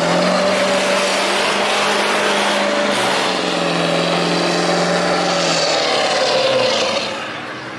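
A car's engine running loud at a steady pitch, then fading about seven seconds in.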